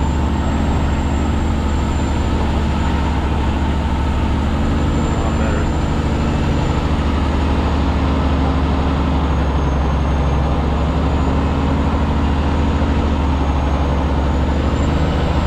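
Loaded truck's engine running steadily with road noise while driving, heard from inside the cab; a low drone with a thin high whine over it.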